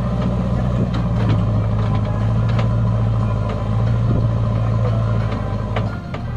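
Heavy diesel engine of a tractor or JCB machine running steadily under load, with a steady low hum that drops off about six seconds in.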